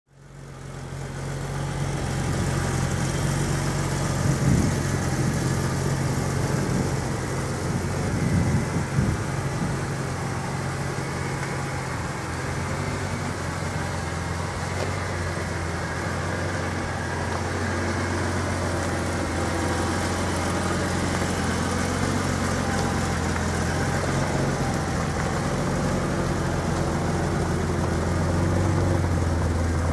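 Ferrari 412's V12 engine idling steadily, its idle note settling lower about twelve seconds in, with two brief louder moments around four and eight seconds in.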